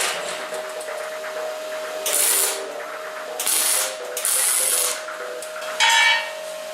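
Hand tool rasping in separate strokes with pauses between, one stroke near the end carrying a brief squeal.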